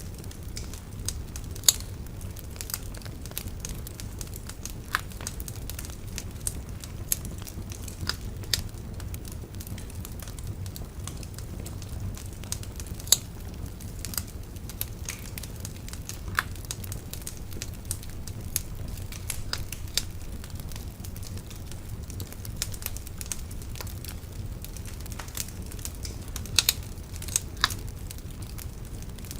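Wood bonfire burning with irregular crackles and sharp pops over a steady low rumble of the flames, with a quick cluster of louder pops near the end.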